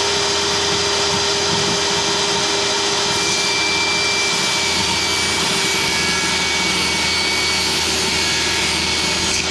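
Electric power saw running at a steady speed while cutting a wooden panel to size: an even, loud motor whine.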